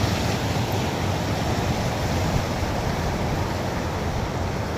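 Heavy floodwater rushing steadily over a village irrigation tank's surplus weir (alugu), the flow high after a night of heavy rain.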